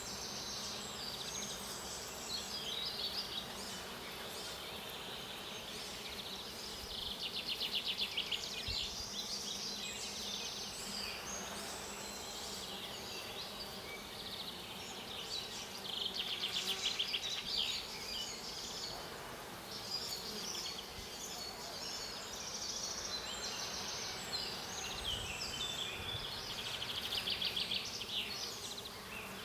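Honeybees buzzing steadily around a log hive, with high, rapid chirping trills coming and going every few seconds over the hum.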